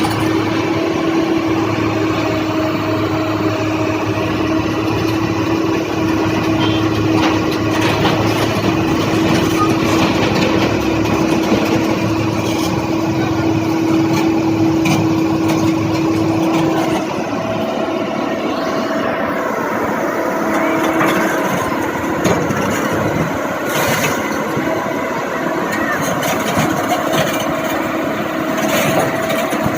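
Construction machinery running steadily, an engine noise with a held whine that shifts to a different pitch about seventeen seconds in, with occasional clicks and knocks.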